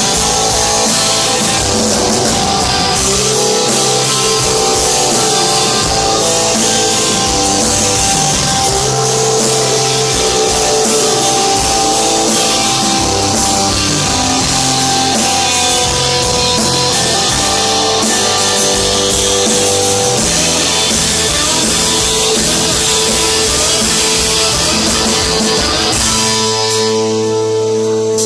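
Live rock band playing with guitars and drum kit. About two seconds before the end the drums and cymbals drop out, leaving the guitars ringing on alone.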